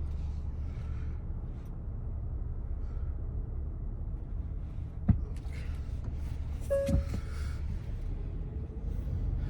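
Steady low rumble of a car heard from inside the cabin, with a sharp click about five seconds in and another knock just before seven seconds, with a brief short tone.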